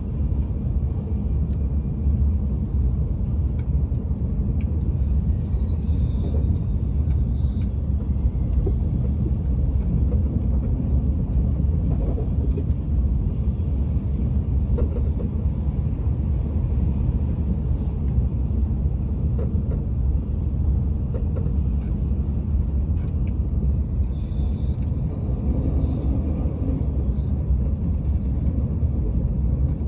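TGV high-speed train running along the line, heard from inside the carriage as a steady low rumble.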